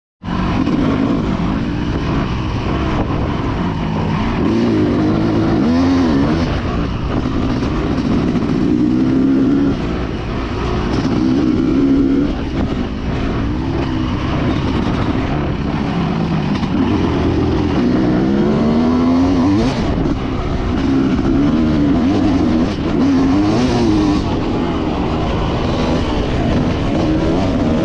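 Dirt bike engine being ridden hard, its pitch repeatedly rising and falling as the throttle is opened and closed through the gears.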